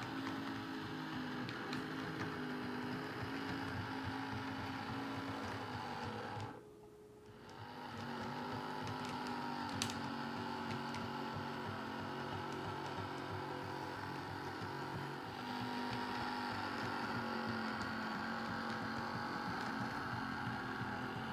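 Model train locomotive running on the layout: a steady motor hum with the rumble of wheels on track. It drops away briefly for about a second, a little over six seconds in, then resumes.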